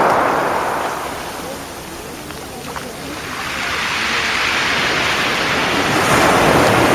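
Sea waves on a shingle beach: one wash dies away over the first couple of seconds, then the next wave builds and breaks, loudest near the end.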